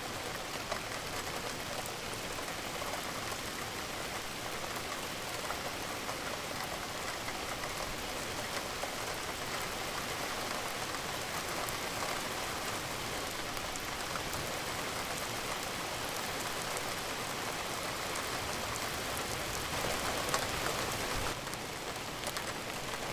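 Steady rain falling and pattering on a surface, with many small drop ticks, briefly heavier near the end.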